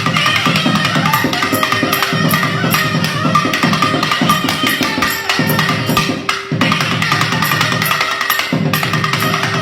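Nadaswaram ensemble music in Mandari raga: a fast run of drum strokes over a steady drone note.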